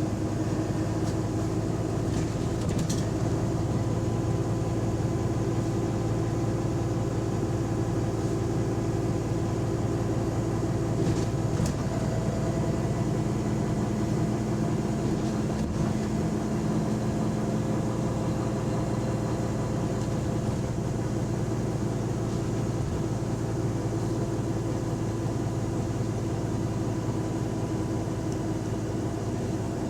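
A double-decker bus's diesel engine running steadily, heard from on board, with a few faint ticks and rattles from the cabin.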